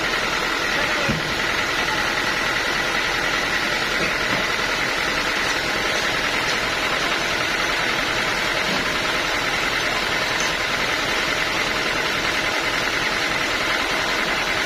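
Sawmill machinery running steadily, a continuous mechanical noise with a faint high whine that fades out about halfway through.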